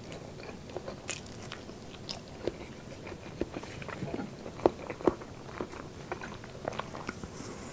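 Close-up mouth sounds of a person chewing a bite of cola-braised pork knuckle: irregular wet smacks and small clicks, a couple of them louder about halfway through.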